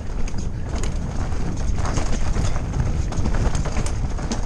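Mountain bike descending a rough dirt trail: a steady low rumble of wind on the microphone, with irregular rattling clicks and knocks from the bike over bumps.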